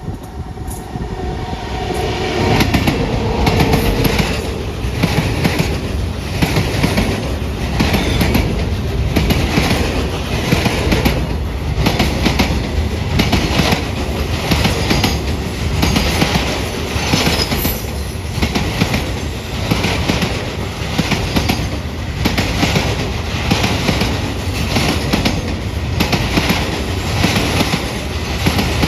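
Indian Railways train passing at high speed close to the track. The rumble builds over the first couple of seconds, then holds as a steady roar with a regular, rapid clatter of wheels over rail joints.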